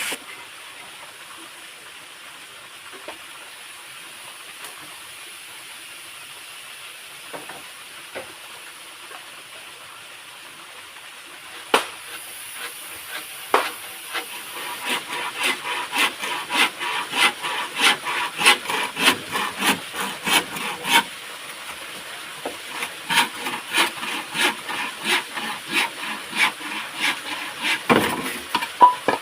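Wood being cut by hand while building a hide, with evenly spaced strokes at about two to three a second in two long runs in the second half, a short pause between them, over a steady faint hiss.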